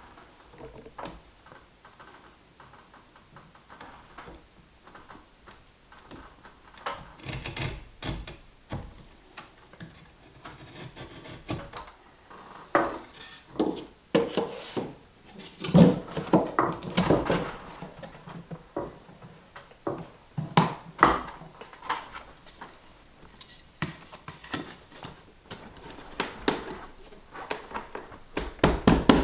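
Irregular wooden knocks, taps and handling noises as tongue-and-groove pine boards are worked into place, busier and louder in the second half.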